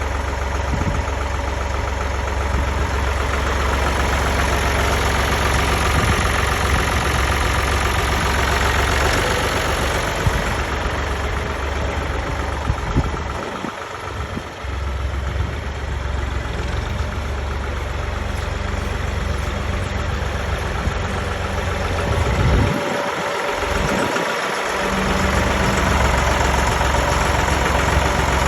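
Tractor engine running steadily with a deep, constant rumble; the low rumble drops away briefly twice, about halfway through and again near the end.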